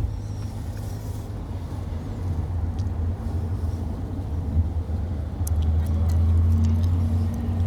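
A motor vehicle's engine rumbling steadily. It grows louder after about five seconds, when a low hum joins in.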